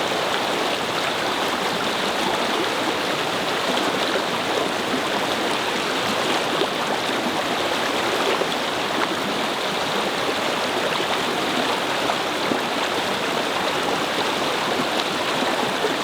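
A small brook babbling over stones: water running steadily.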